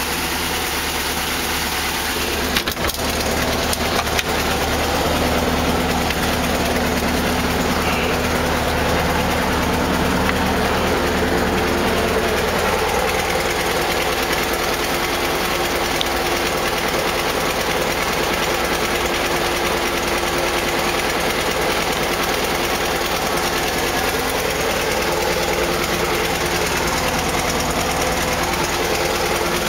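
Air-cooled flat-four engine of a 1969 Volkswagen Type 3 Squareback, fitted with dual carburettors, idling steadily. A few sharp knocks come about three and four seconds in.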